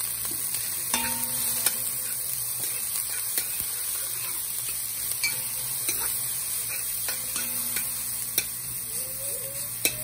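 Chopped onion, pepper and minced garlic sizzling in hot coconut oil in a frying pan, with a steady hiss. A spoon scrapes and clicks against the pan now and then as they are stirred.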